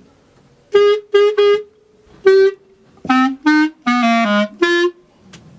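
Solo clarinet playing a phrase of separate, detached notes. Three quick notes on one pitch come first, then a longer note on the same pitch, then notes stepping down into the low register.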